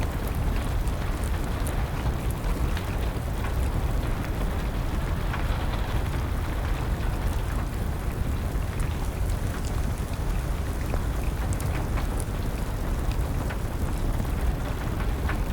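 Steady rain with a low rumble underneath, dotted with scattered sharp crackles and pops from a burning wood fire.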